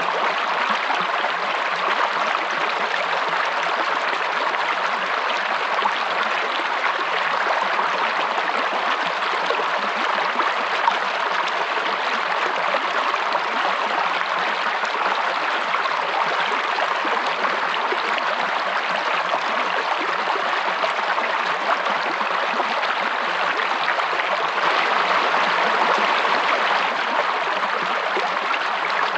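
Stream water running steadily, an even unbroken rushing.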